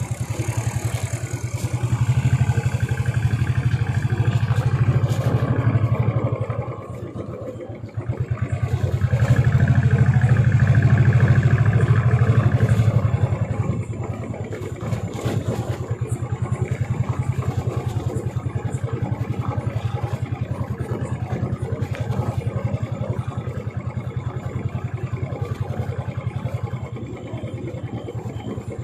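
Royal Enfield motorcycle engine running on the move, pulling harder twice: a few seconds in, and again about ten seconds in, with a brief easing off between. After that it settles to a steadier, lower cruise.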